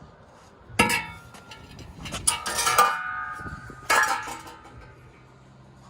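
Steel exhaust pipe from a Ford Focus ST clanging as it is handled: a strike about a second in, a cluster of knocks at two and a half seconds that leave the pipe ringing, and another clang near four seconds.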